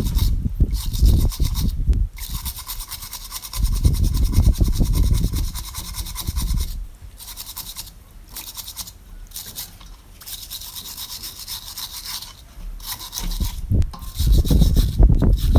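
Repeated scrubbing strokes on a hard surface, breaking off briefly several times, with heavier knocking and handling near the start and the end.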